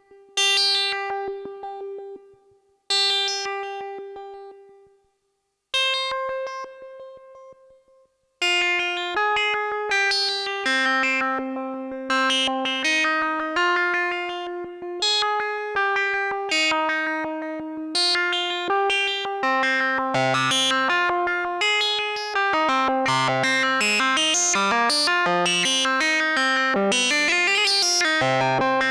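Behringer Odyssey duophonic analog synthesizer played solo. First come three separate single notes, each with a sharp attack that fades away. From about a third of the way in, a melodic line of notes starts, and near the end it quickens into a dense, rapid two-voice arpeggio.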